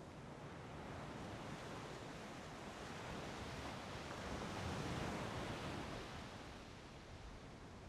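Rushing noise of wind and water at the shore, swelling to a peak about five seconds in and then easing off.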